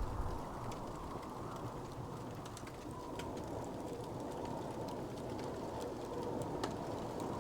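Wood fire crackling, with scattered small pops and one sharper pop near the end over a steady low rumbling hiss.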